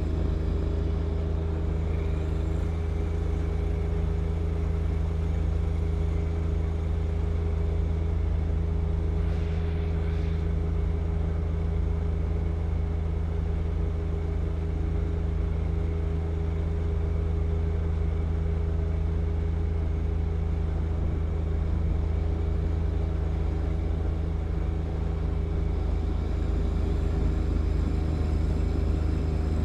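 John Deere 1025R compact tractor's three-cylinder diesel engine running at a steady speed, driving its snow blower, with no change in load.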